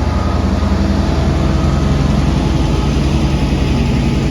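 Class 66 diesel locomotive's two-stroke EMD V12 engine running steadily with a low drone as it pulls a freight train away.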